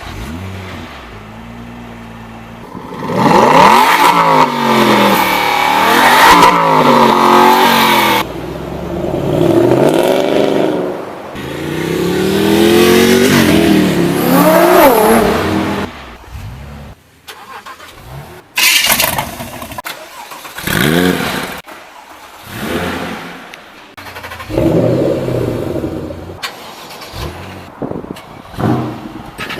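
A run of different high-performance car engines starting and revving hard, one after another with abrupt cuts between them. The engine note climbs and falls with repeated throttle blips, loudest in two long rev sequences in the first half, then shorter bursts of revving in quick succession.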